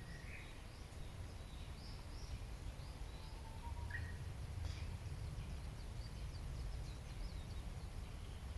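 Wild birds singing and calling: many short, high chirps scattered throughout, with a lower whistled note about four seconds in, over a steady low outdoor rumble.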